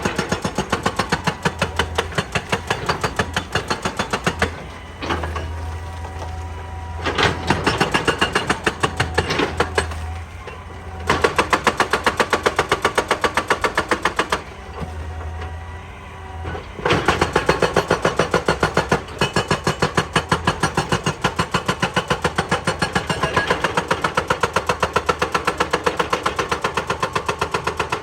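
Excavator-mounted hydraulic rock breaker hammering in rapid, evenly spaced blows, stopping three times for a few seconds while the excavator's engine keeps running underneath.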